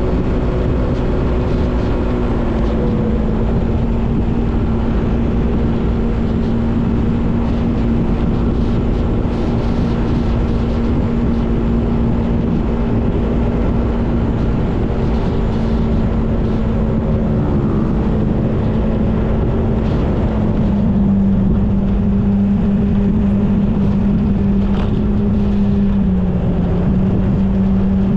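Motorbike engine running at a steady road speed over a continuous rushing noise. The engine note dips slightly twice, about two-thirds of the way through and again near the end.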